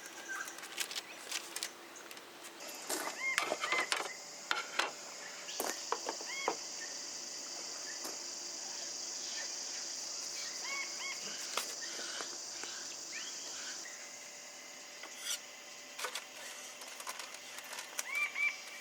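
Bush birds calling with many short, arching chirps, over a steady high-pitched buzz that starts about three seconds in and stops about eleven seconds later, with scattered light clicks.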